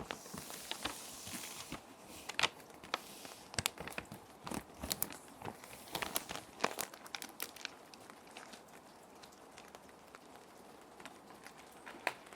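Plastic sheet protectors crinkling and rustling as paper sheets are slid in and handled, with many sharp, irregular crackles. The longest rustle is in the first second or so.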